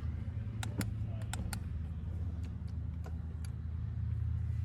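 A quick run of sharp light clicks about a second in, with a few fainter ones later, over a steady low hum.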